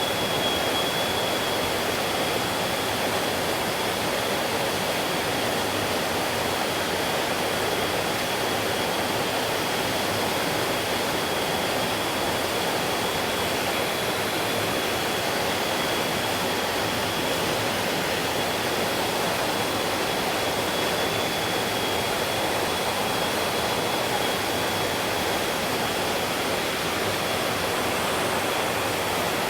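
Mountain stream water rushing steadily over rocks, an even, unbroken noise. A thin, steady high tone runs along with it.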